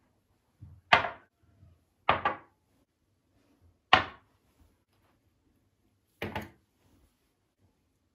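Four sharp knocks from kitchen objects being handled, a second or two apart, the second and fourth each a quick double knock.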